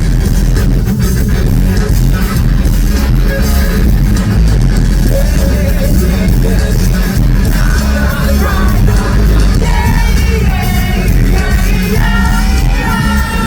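Rock band playing live through a big PA, heavy bass and drums continuous. About halfway through, a high melodic line that bends and slides in pitch rises over the band.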